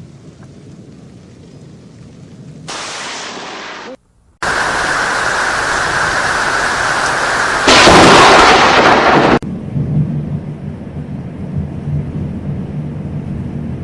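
Thunderstorm: rain hissing steadily, with a loud crash of thunder about eight seconds in, followed by lower rumbling. The sound breaks off abruptly several times, including a brief silence about four seconds in.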